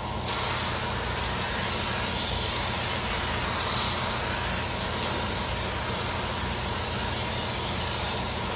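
Compressed-air paint spray gun hissing steadily as paint is sprayed, switching on abruptly just after the start, over a steady low hum.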